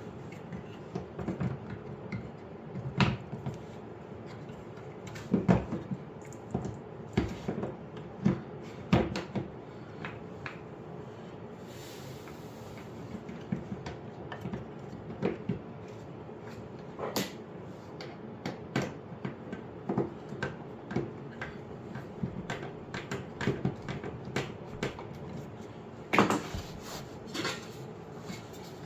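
Irregular clicks, knocks and short rattles of parts and connectors being handled and fitted on a dishwasher, during the install of a replacement noise suppressor (power line filter). A sharper clatter comes about 26 seconds in.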